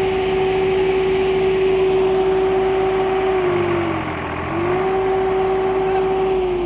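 Tractor engine running with a steady pitched drone that dips briefly in pitch about four seconds in, then rises back and begins to fall away near the end.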